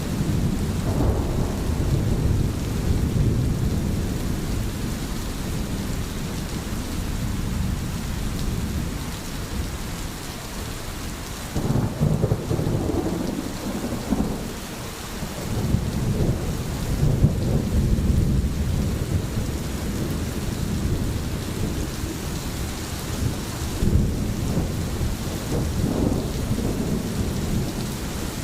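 Steady heavy rain with rolling thunder, the low rumble swelling and fading several times, most strongly about twelve seconds in and again near seventeen and twenty-four seconds.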